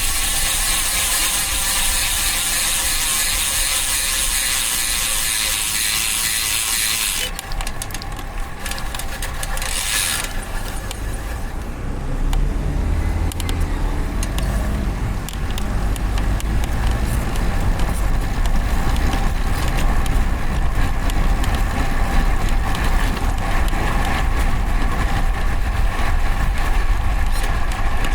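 Rear freehub of a road bike ticking rapidly as it freewheels, the ratchet buzz of a DT Swiss hub, mixed with tyre and road rumble that grows louder about halfway through.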